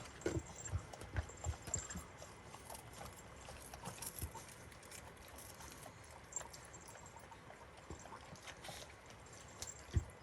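Jindo puppies nursing from their mother: soft irregular taps, shuffling and suckling, with faint, brief tinkles from the small bells on their collars.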